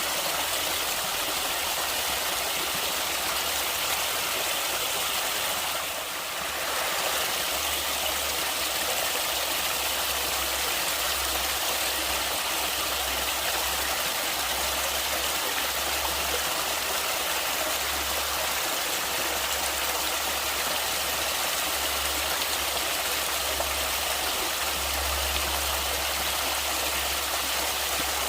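Stream water flowing steadily, a continuous rushing hiss with an uneven low rumble underneath.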